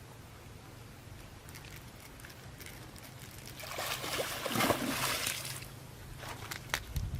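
Water sloshing and splashing, with a louder stretch of splashing about four seconds in that lasts around two seconds, and scattered small clicks.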